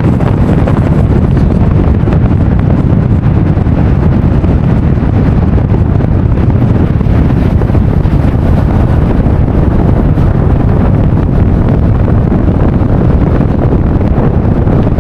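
Steady, loud wind noise buffeting the microphone over the road rumble of a moving vehicle.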